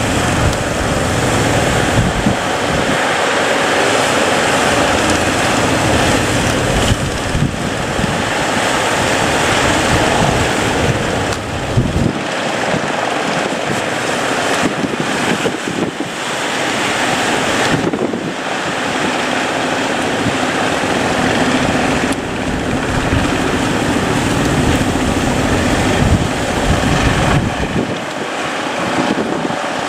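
Surf and big waves breaking, with heavy wind buffeting the microphone and a boat engine running beneath.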